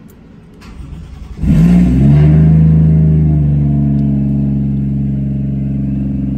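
Toyota 1JZ-GTE 2.5-litre straight-six cranking on the starter for about a second, then catching and flaring up in revs. It settles into a steady idle that slowly eases down.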